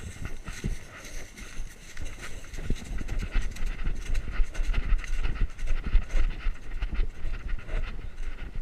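An animal panting hard, with many irregular knocks and low thumps close to the microphone.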